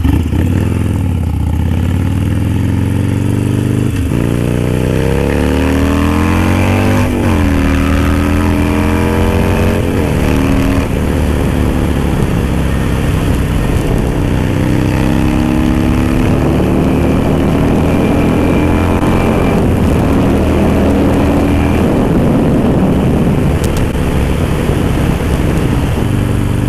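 Harley-Davidson Sportster Roadster V-twin with an aftermarket Dan Moto exhaust, ridden under way and accelerating through the gears: the engine note climbs and drops back at shifts about 4, 7 and 10 seconds in, then pulls along at a steadier speed with slow rises and falls.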